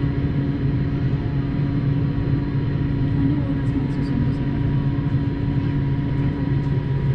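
Steady cabin noise inside an Airbus A220-300 with Pratt & Whitney PW1500G geared turbofans: a constant low engine and airflow rumble with a steady hum and a faint high whine, and a few faint ticks about four seconds in.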